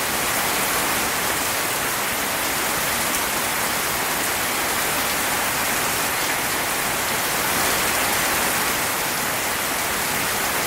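Heavy rain pouring down on a house in a steady, unbroken hiss, like a waterfall over the roof.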